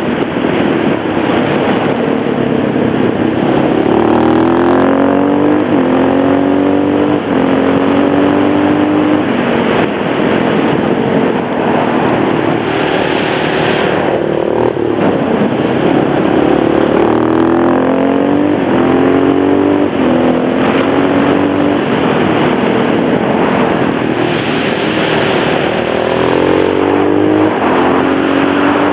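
KTM LC4 supermoto's single-cylinder four-stroke engine under hard riding, revving up in pitch again and again with a quick drop at each gear change.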